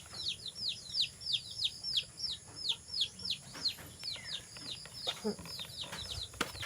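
A bird chirping repeatedly: short high chirps, each falling in pitch, about three to four a second. A sharp click sounds near the end.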